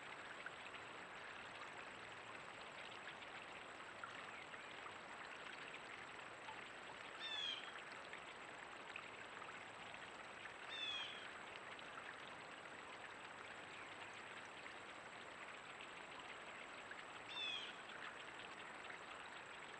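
Steady hiss of running water, with a small bird calling three times, each call a short run of quick notes stepping down in pitch.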